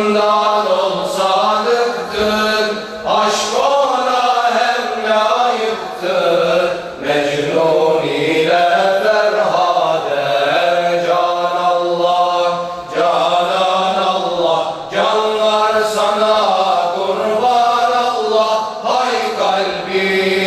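Group of voices chanting a Turkish ilahi, a Sufi devotional hymn, as a repeated zikr refrain. The chanting runs on in phrases of a few seconds, with brief breaks between them.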